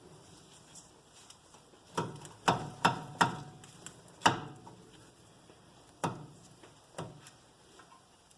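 About seven sharp metallic knocks and clinks at irregular intervals, each with a brief ring: hand tools and brake parts striking metal during front brake pad work. They cluster in the first half, with two more later.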